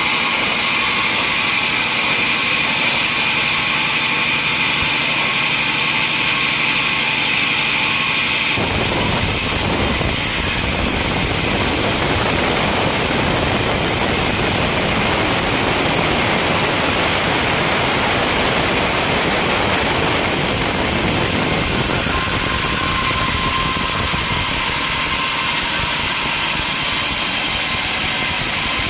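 Sawmill machinery running with no pause: a steady high whine at first, changing suddenly about eight seconds in to a loud rushing noise that thins out again near the end.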